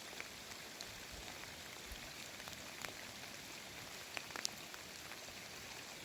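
Steady rain, with scattered sharp ticks of single drops landing close by.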